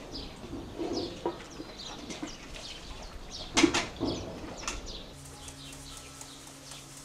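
Small birds chirping over and over in short, quick calls, with one sharp crack a little past three and a half seconds in. About five seconds in, a steady low hum sets in under the chirping.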